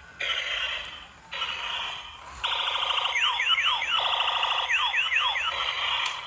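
Electronic sound effects from a toy's small built-in speaker: hissy bursts, then rapid buzzing pulses and quick falling laser-like zaps in groups of three, starting about halfway in.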